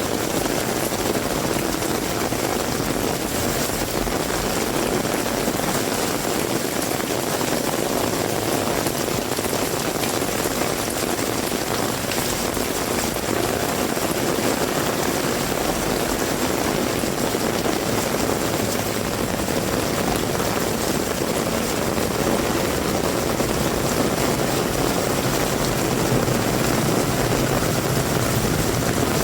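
Heavy rain pouring steadily, an even, unbroken hiss of rainfall.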